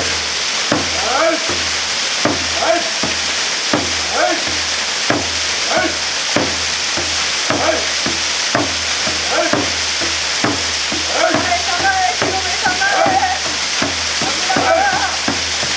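Waterfall pouring in a steady hiss, with a regular beat about one and a half times a second. Wavering tones join in after about eleven seconds.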